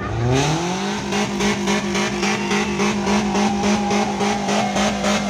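Car engine revved up within the first second and held steady at high revs, with a regular pulsing of about four to five beats a second.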